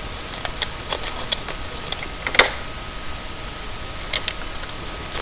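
Scattered light clicks and ticks of tape being handled and pressed over a fridge's door light switch, with one sharper click a little before halfway.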